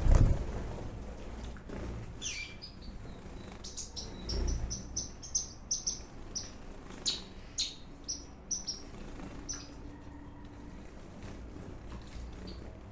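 Small aviary birds chirping: a string of short, high chirps, busiest from about two to ten seconds in, after a dull thump at the very start.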